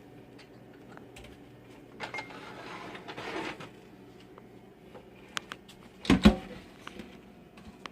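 Kitchenware being handled: metal strainers, a pot and a cup clinking and knocking as they are set up for straining tea, with a brief rustling scrape about two seconds in and a single louder knock about six seconds in.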